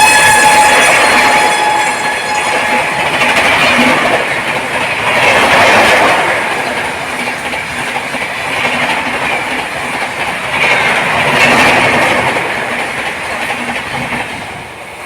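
Passenger train passing at high speed, its wheels and coaches rushing by in a loud, continuous clatter that swells and eases. A train horn sounded just before carries on over the first few seconds, dropping a little in pitch as it fades away.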